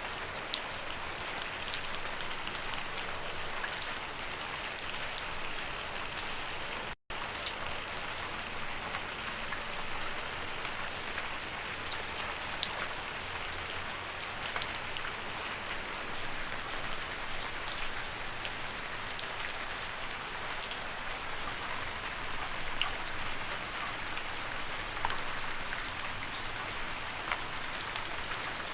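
Steady rain falling, a constant hiss dotted with the sharp ticks of individual drops hitting a surface. The sound cuts out for an instant about seven seconds in, then resumes unchanged.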